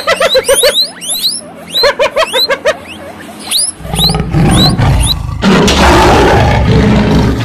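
Animal calls: a rapid string of high squeaks, each sweeping upward in pitch. About four seconds in, a loud, rough growling roar takes over.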